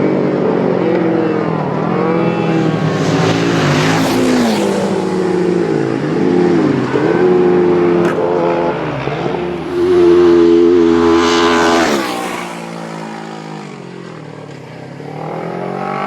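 Road-racing motorcycles passing at speed one after another, their engine notes climbing and dropping with each gear change. The loudest pass holds a high steady note about ten seconds in, then falls away, and another bike's note rises near the end.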